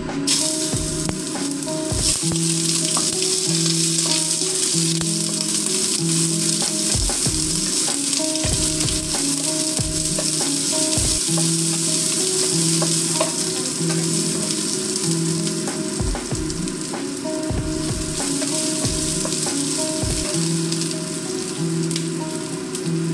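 Food frying in hot oil in a pan, a loud sizzle that starts suddenly as the food goes in, with occasional spatula knocks against the pan as it is stirred.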